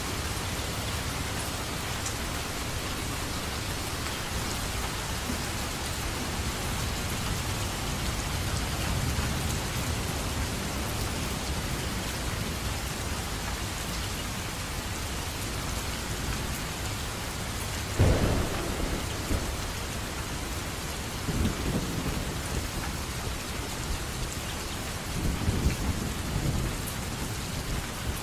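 Steady rain with thunder: a sudden loud thunderclap about two-thirds of the way in, followed by two softer rumbles near the end.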